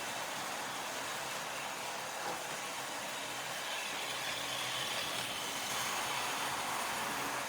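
Model railway locomotive's electric motor running with a steady whir, its wheels and a rake of coaches rolling along the track.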